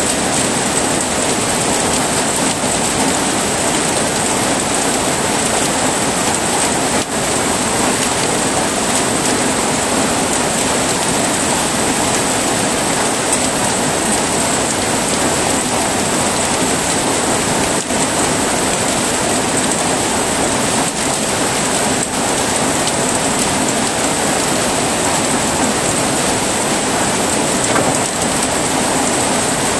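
Steady heavy rainfall: a dense, even hiss of rain without a break.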